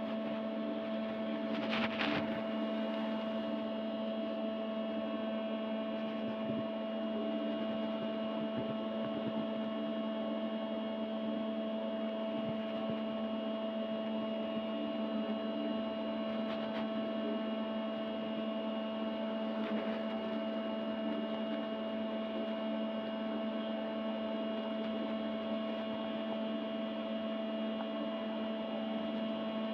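A steady hum made of several fixed tones, with a brief crackle about two seconds in.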